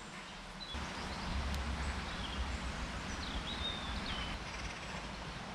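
Small birds chirping in woodland: a few short, high whistled notes. They sit over a steady outdoor background, which gains a low rumble suddenly about a second in.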